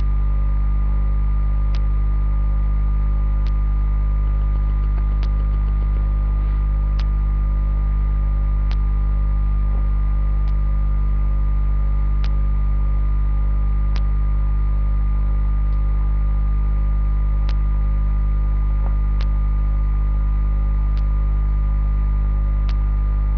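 Loud, steady electrical mains hum on the recording, with faint sharp clicks repeating evenly about every second and three-quarters.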